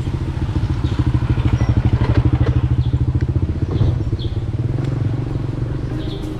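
A motor vehicle's engine running steadily, with rapid, even pulses, and a few brief high chirps over it.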